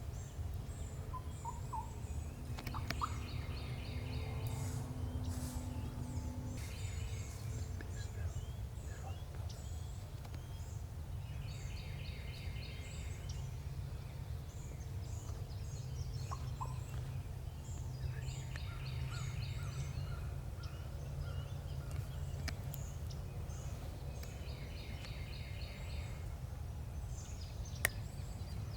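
Wild turkey gobbler gobbling about four times, every seven seconds or so, with small songbirds chirping. A steady low rumble runs underneath.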